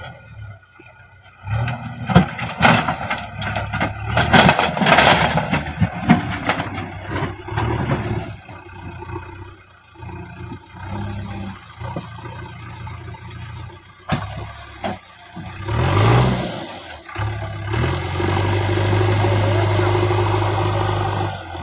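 JCB backhoe loader's diesel engine running, with a stretch of clanking and knocking from about two seconds in to about eight seconds as the bucket works over rock. A few sharp knocks follow later, then a steady engine hum near the end.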